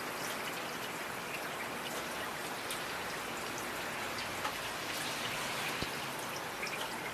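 Steady rain falling, an even hiss with scattered individual drops ticking sharply through it.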